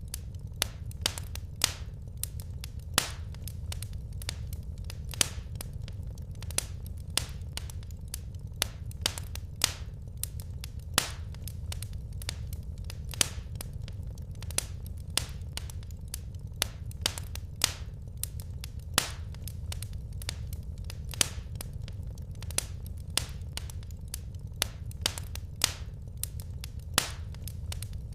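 Wood fire burning in a fireplace: sharp, irregular crackles and pops, about two a second, over a steady low rumble.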